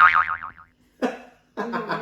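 A cartoon 'boing' sound effect, a loud wobbling tone that slides down over about half a second at the start, then a voice near the end.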